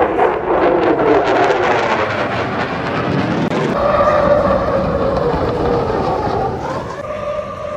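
Loud engine with a steady whine, its pitch falling in the first second as it passes, then drifting slowly up and down.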